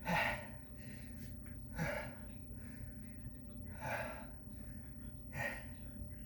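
A man breathing hard, four loud gasping breaths about every one and a half to two seconds, winded from a set of six-count exercise reps. A steady low hum runs underneath.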